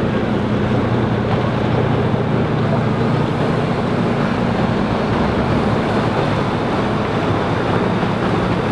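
Sailing yacht's inboard engine running steadily at low speed while the boat is manoeuvred into a berth, with wind noise on the microphone.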